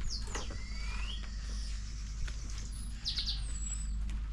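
Birds calling: short high whistles and chirps, some sliding down in pitch, a rising whistle about half a second in, and a quick run of chirps about three seconds in, over a steady low rumble.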